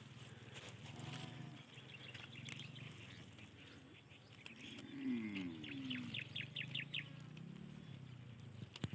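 Small birds chirping, short high notes repeated in quick runs, with a brief low call falling in pitch about five seconds in.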